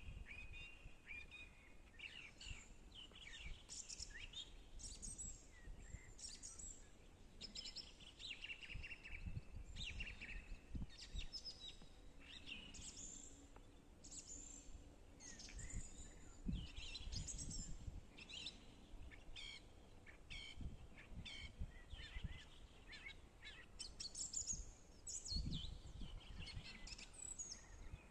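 Songbirds singing: a continual run of short, high chirps and trills, several overlapping, over a low rumble that comes and goes.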